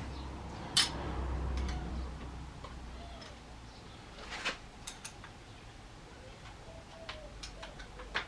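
Sharp metallic clicks and clinks of hand tools on the motorcycle's front fork clamp as it is undone: a loud one about a second in, another around the middle, and several lighter ticks near the end.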